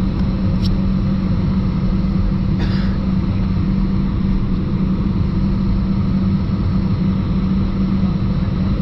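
Airbus A320 cabin noise while taxiing after landing: the engines run at idle as a steady rumble with a constant low hum.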